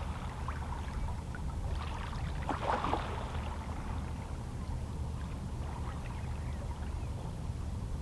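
Small waves on a calm sea lapping and splashing against shoreline rocks, with a larger splash about three seconds in, over a steady low rumble.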